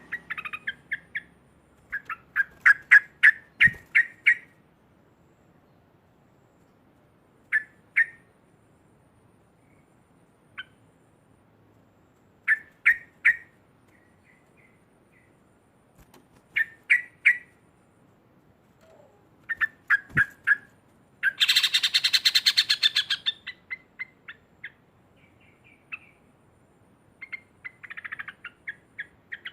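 Yellow-vented bulbul (trucukan) singing short bubbly phrases of quick repeated notes every few seconds, with a longer, rapid, harsh chatter about two-thirds of the way through.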